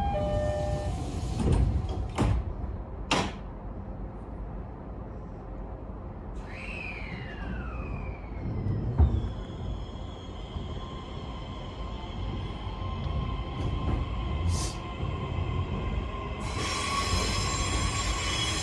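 JR East E131-1000 series electric train from inside: the sliding doors close with a couple of knocks in the first few seconds, then the train pulls away with its traction motors whining, first in a falling tone, then in steady tones that slowly rise. A loud hissing rush of wheels on the rails sets in near the end.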